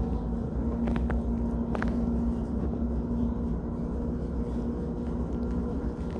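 Passenger train running, heard inside the carriage: a steady low rumble with a constant hum, and a couple of short clicks about one and two seconds in.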